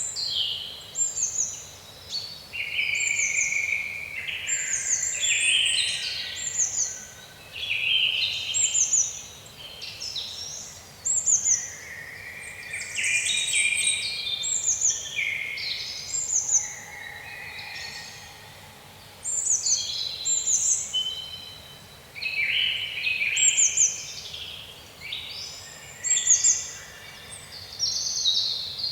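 Songbirds singing: quick, high chirping phrases with fast falling notes, one phrase every second or two.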